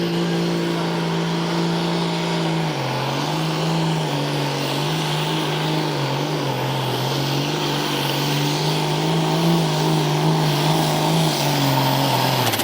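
Naturally aspirated pulling tractor's engine at full throttle under load. The pitch holds steady, drops about three seconds in, then rises and falls through the rest of the pass and stops near the end.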